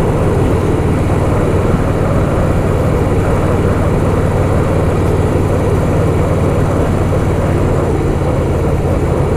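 Harley-Davidson Softail Fat Boy's air-cooled V-twin running steadily while cruising, heard from the bike with a rushing noise over the engine.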